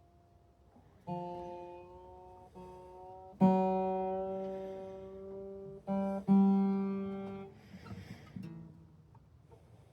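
Martin D-16 acoustic guitar, its frets freshly leveled, with about five single notes plucked one at a time and left to ring out. The loudest notes come about three and a half and six seconds in. Soft finger and string noises follow near the end.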